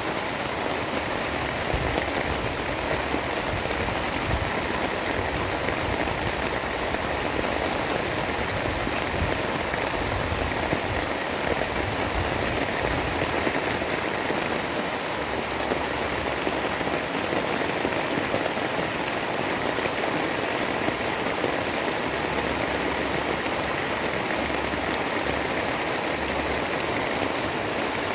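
Steady, dense rain falling, with a low rumble coming and going beneath it.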